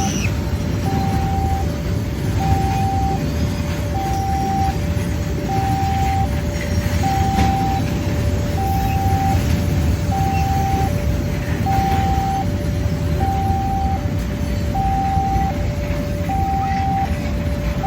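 Railway level-crossing warning alarm sounding a repeating electronic two-tone signal, a higher and a lower note alternating, each about half a second long, warning that a train is approaching. A steady low rumble of vehicles runs underneath.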